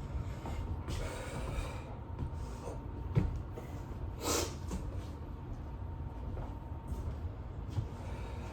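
A man breathing hard through his nose and mouth as he rests between burpee sets, with a couple of sharp exhales (the loudest a little past four seconds in) and a light knock just after three seconds.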